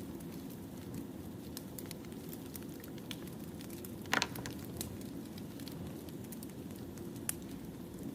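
Wood fire crackling: scattered small snaps and pops over a steady low rumble of burning logs, with one louder pop about four seconds in.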